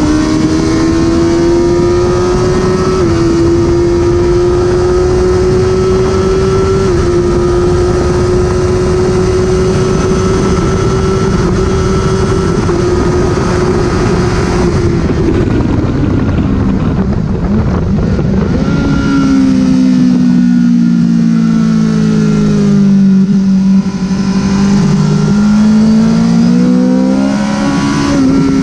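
Honda CBR1000RR inline-four engine held at high revs with a slowly climbing pitch under loud wind rush for about fifteen seconds. The throttle then closes and the pitch drops, dips further through a slower stretch and rises again near the end as it accelerates.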